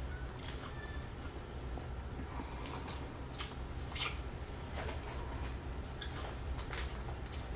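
A person chewing food with the mouth close to the microphone: scattered soft, wet mouth clicks and lip smacks, about one a second, over a low steady hum.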